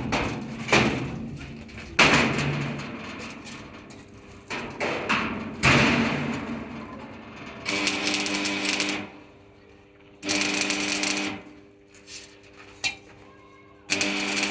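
Several sharp knocks with ringing tails, then three short bursts of a steady humming machine, each about a second long.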